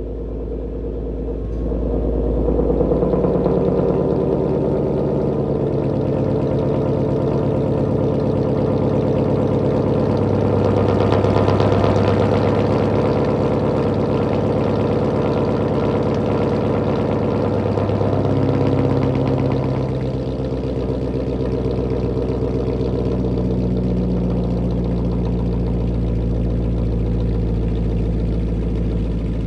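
Jaguar S-Type R's supercharged V8, straight-piped, running at a raised cold-start idle. It gets louder about two seconds in and settles to a lower idle about twenty seconds in.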